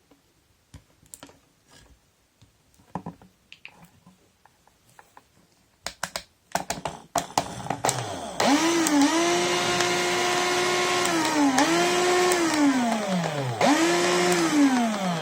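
Old Makita cordless hammer drill, rewired to run on a LiPo airsoft battery, being test-run. After a few clicks of handling and some short bursts of the motor, it spins up to a steady whine, drops and picks up again twice as the trigger is eased and squeezed, and winds down near the end.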